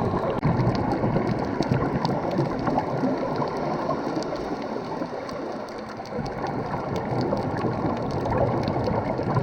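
Dive boat under way: a steady rush of water with motor noise beneath it and scattered light ticks.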